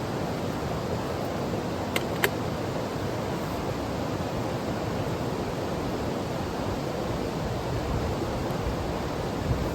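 Mountain stream rushing steadily over rocks. Two short sharp clicks about two seconds in.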